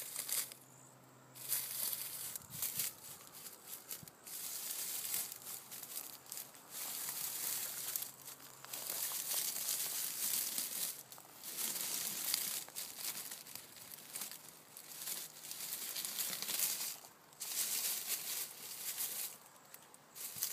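Dry leaves and brush rustling and crunching in irregular bursts with brief pauses, as from movement through dry leaf litter and scrub.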